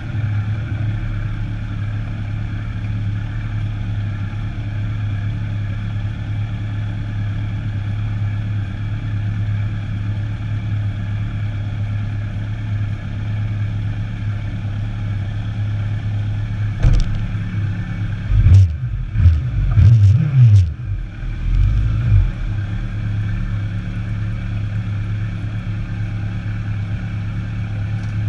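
Sport motorcycle engine running at a steady, low note. About two-thirds of the way in, the throttle is blipped several times in quick succession, and then the engine settles back to the steady note.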